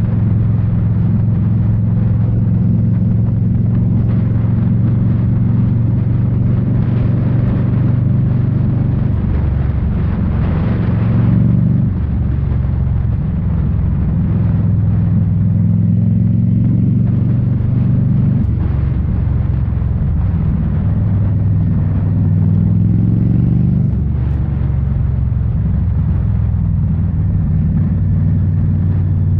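2018 Indian Scout Bobber's liquid-cooled V-twin running through Rinehart slip-on mufflers while riding, a steady low exhaust note whose pitch drops and climbs again several times as the bike changes speed and gears.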